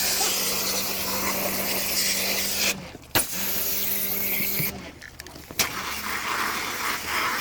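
High-pressure cleaning sprayer washing the air conditioner, its pump humming under a loud spray hiss. The spray is cut off and restarted twice, briefly about three seconds in and for about a second near the middle.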